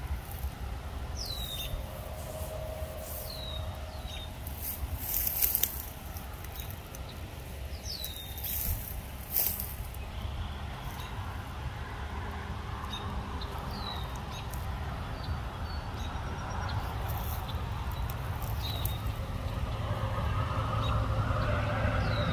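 A bird giving short, high chirps that fall in pitch, repeated every few seconds, over a steady low rumble of wind on the microphone, with a few brief rustles.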